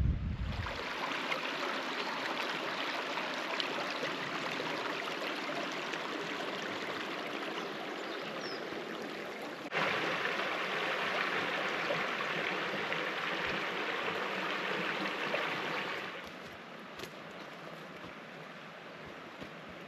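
Creek water running over rocks, a steady rush of flowing water. It gets louder about ten seconds in and falls to a quieter background around sixteen seconds in, after a brief low thump at the very start.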